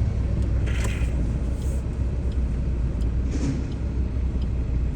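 Steady low rumble of road vehicles, with brief faint noises about a second in and again around three and a half seconds.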